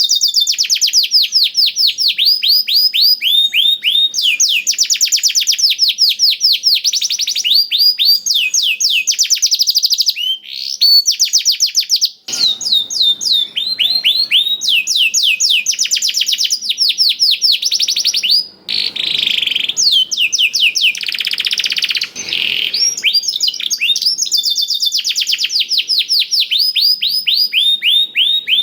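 Domestic canary singing a long, continuous song of fast, high trills of quickly repeated sweeping notes, its repertoire filled with phrases learned from a black-throated canary (blackthroat). A rougher, buzzier passage comes about two-thirds of the way through, between brief pauses.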